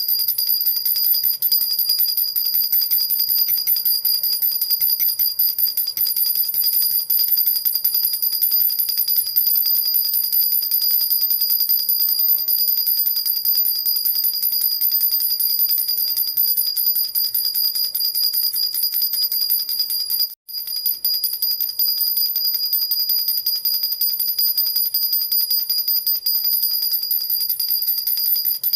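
Silver jhunjhuna baby rattle shaken steadily, a fast, even jingling of its small bells with a bright high ring. It cuts out for an instant about twenty seconds in, then carries on.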